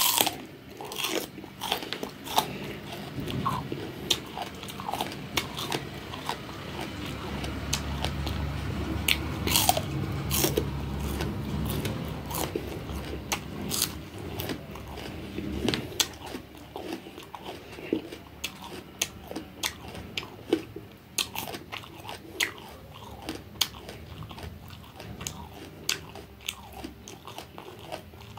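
Close-up mouth sounds of a person biting into and chewing bitter gourd: crisp crunching clicks over a wet chewing rumble, busiest in the first half and thinning out toward the end.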